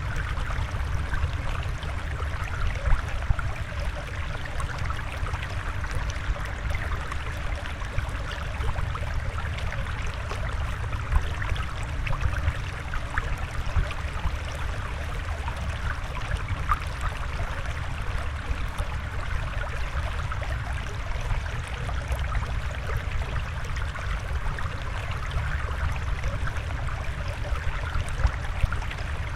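Steady flowing water, with a low rumble beneath a lighter hiss.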